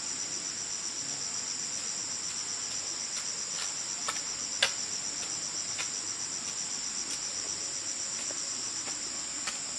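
Steady high-pitched insect chorus, cricket-like, with a fine rapid pulse. A few sharp light knocks stand out over it, the loudest about halfway through.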